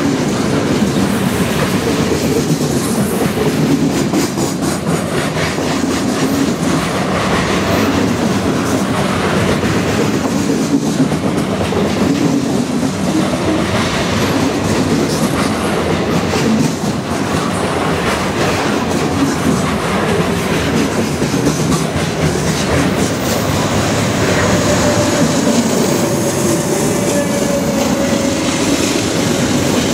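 Long freight train rolling past close by at speed: a steady rumble of steel wheels on rail, with rapid clicking as wheelsets cross rail joints. Near the end the mid-train GE C44-9W distributed-power diesel locomotive comes by.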